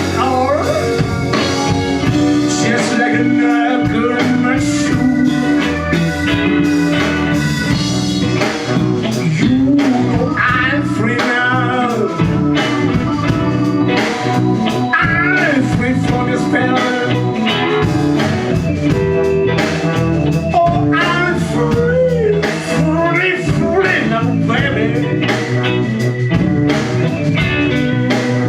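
Live blues band playing a slow blues, with a lead electric guitar bending and wavering its notes over bass and drums.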